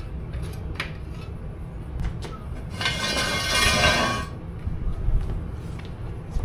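Metal tools and hardware clinking and knocking, with a harsh buzzing, hissing burst lasting about a second and a half, starting near the three-second mark.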